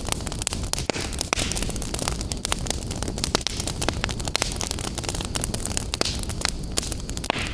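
Wood fire burning in a fireplace: a steady low rumble of flames with frequent sharp crackles and pops, and a brief hissing whoosh near the end.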